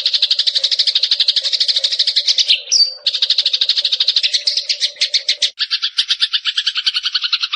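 Eurasian tree sparrow (burung gereja) chattering in fast, evenly repeated rolls, broken by one short high whistle a little under three seconds in. From about halfway, a second, doubled trill with a lower and a higher strand takes over and cuts off suddenly at the end.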